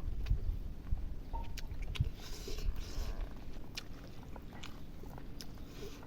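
A person chewing and biting food close to the microphone, with many sharp, wet mouth clicks and short squishy smacking sounds.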